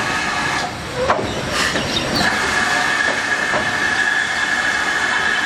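Steam-hauled train running on the rails with a steady high-pitched squeal over a hissing running noise. The squeal drops out briefly about a second in, then holds.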